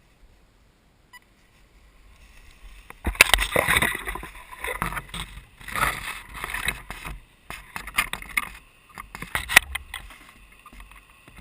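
Footsteps crunching through dry leaf litter and brush rustling against clothing, in irregular bursts that begin about three seconds in.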